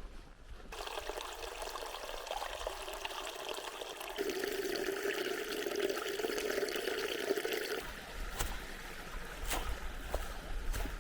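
Mountain stream water trickling and splashing over rocks, the flow sound changing abruptly twice, with a few sharp clicks in the last few seconds.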